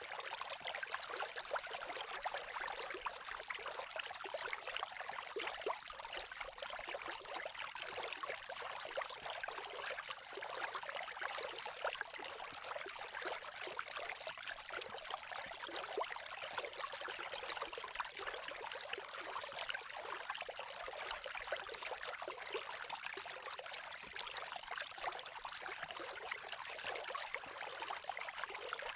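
Babbling creek: a steady rush of running water, peppered throughout with many fine crackles from a campfire.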